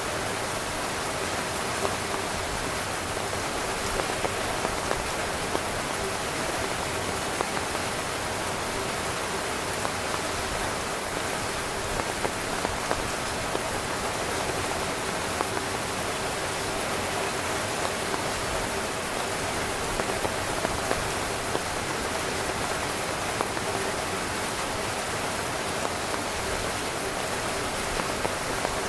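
Heavy rain falling on a camping tent: a steady, dense hiss with scattered sharper drop impacts.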